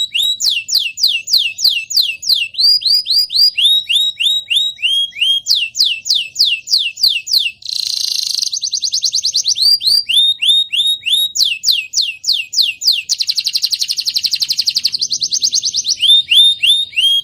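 Young canary singing: runs of repeated notes that each sweep down in pitch, several a second, changing to a new note type every second or two, with two fast rolling trills in between.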